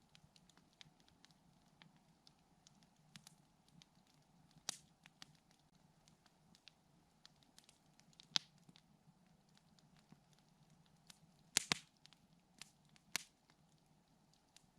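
Campfire wood crackling softly with irregular small ticks and a few louder sharp pops, a close pair of them about two-thirds of the way in.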